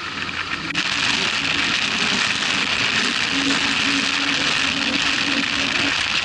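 Motorcycle riding along: a steady rush of wind and road noise with a faint engine hum underneath, stepping up in loudness about a second in.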